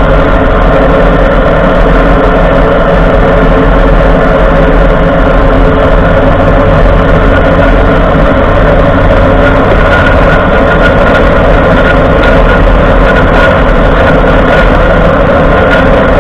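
Ford F-150 running, heard from underneath the truck: a loud, steady mix of engine, drivetrain and road noise with several constant tones.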